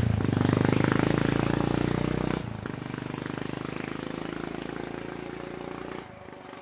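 Single-cylinder engine of a 1994 BMW F650 Funduro running through a Hattech aftermarket exhaust, a steady, evenly pulsing exhaust note. It gets quieter in two steps, about two and a half seconds in and again near the end.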